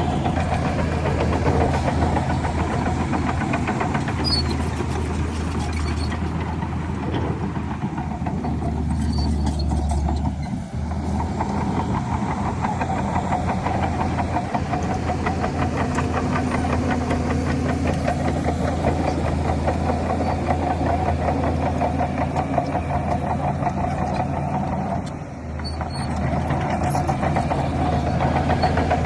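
Heavy diesel earthmoving machinery engine running under steady load. The level dips briefly twice, about ten and twenty-five seconds in.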